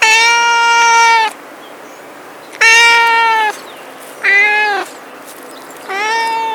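Domestic cat meowing four times: drawn-out meows, each held at a fairly steady pitch and dropping at the end, the third one shorter. A faint hiss sits between the calls.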